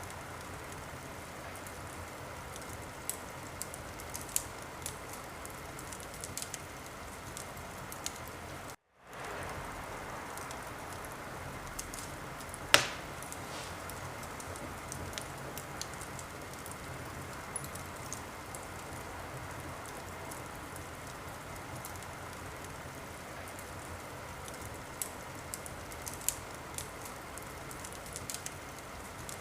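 Wood fire in a fireplace crackling over a steady hiss, with scattered small snaps and one loud pop a little before halfway. The sound drops out for an instant about nine seconds in.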